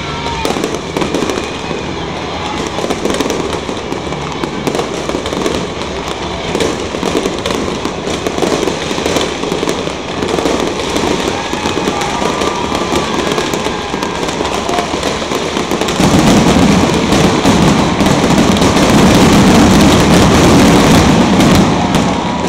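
Fireworks grand finale: a continuous dense barrage of bursts and crackling. It turns louder and heavier about sixteen seconds in.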